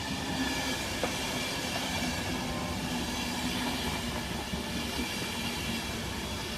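A passenger train running through the station along the main line: a steady rumble of wheels on rail with a constant low hum, and a single sharp click about a second in.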